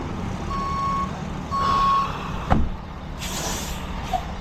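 Truck reversing alarm beeping twice, steady and high-pitched, over a running truck engine; then a sharp click and a short hiss of air.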